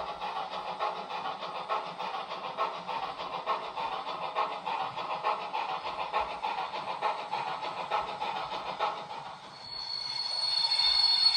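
Sound decoder of a Roco H0 model of a class 56 steam locomotive playing rhythmic steam chuffing through the model's small speaker; near the end the chuffing fades and a high steady whistle starts and grows louder.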